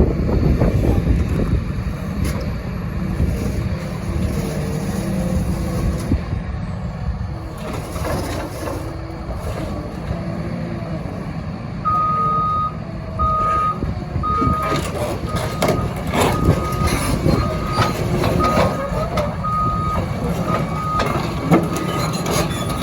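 CAT 336FL hydraulic excavator's diesel engine running under a heavy low rumble. About halfway in, a warning alarm starts beeping about once a second, typical of the travel alarm sounding while the machine tracks, with scattered knocks and clanks alongside.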